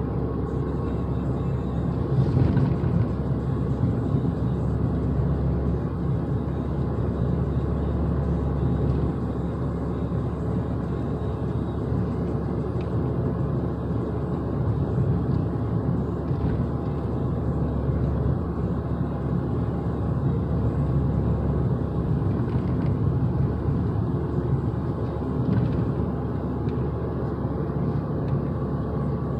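The 2015 Fiat 500 Abarth's 1.4-litre turbocharged four-cylinder engine running under steady driving, together with road noise. The rumble holds fairly even throughout.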